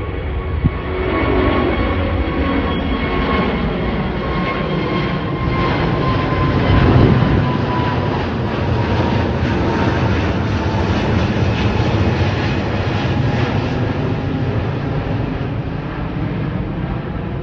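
British Airways Airbus A380's four Rolls-Royce Trent 900 turbofans at takeoff power: a loud, steady jet roar with thin whining tones that slowly fall in pitch, swelling loudest about seven seconds in.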